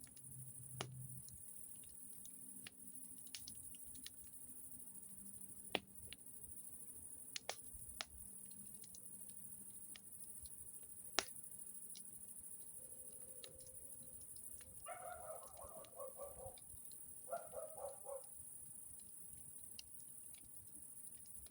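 Campfire crackling, with scattered sharp pops and snaps at irregular intervals. Two short, pulsing pitched calls from an animal come about fifteen and seventeen seconds in.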